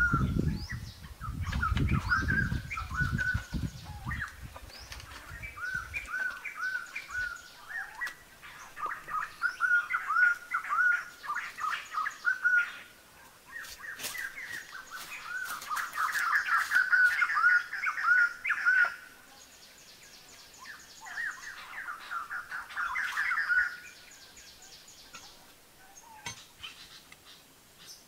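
Songbirds singing in forest, repeating phrases of quick chirped notes, loudest through the middle and fading in the last few seconds. A low rumble runs under the first few seconds, and a few sharp clicks come around the middle.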